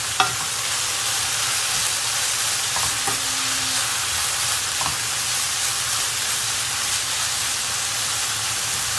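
Mince, onion, peppers and tomato frying with a steady sizzle in a frying pan while a wooden spoon stirs and scrapes through them, with a few light knocks of the spoon against the pan.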